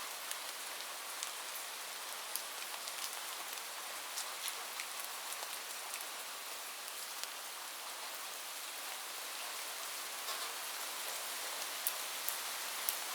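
Heavy rain falling steadily on a roof, an even hiss with individual drops ticking sharply through it, a few louder ticks near the end.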